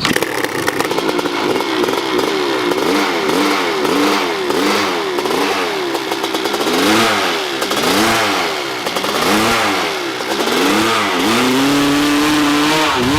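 Hill-climb motorcycle engine revving up and down over and over, about once or twice a second, as the throttle is worked on the steep climb, then held at high revs near the end.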